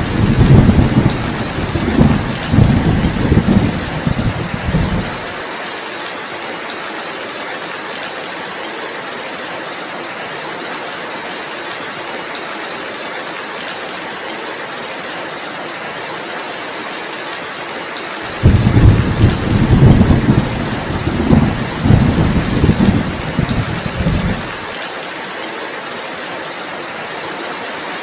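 Steady heavy rain, with two low rolls of thunder: one already rumbling at the start and fading out about five seconds in, another starting about two-thirds of the way through and lasting about six seconds. Each cuts off abruptly.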